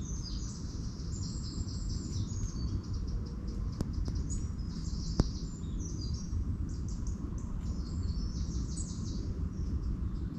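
Several songbirds chirping and singing at once over a steady low rumble, with two faint clicks near the middle.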